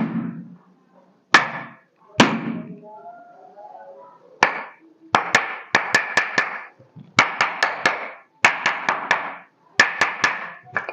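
Sharp percussive strikes on the body during hands-on manual therapy: a few single blows, then quick runs of about four to five rapid strikes in a row, repeated several times.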